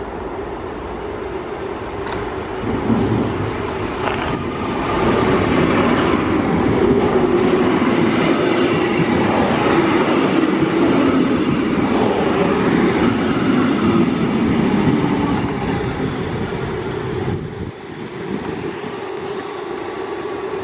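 A train running past on the rails. It grows louder from about 3 to 5 seconds in, holds loud for about ten seconds, then drops away at about 17 seconds.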